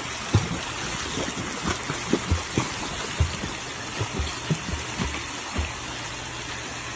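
Pool water slapping and splashing in irregular low thumps over a steady rush of moving water.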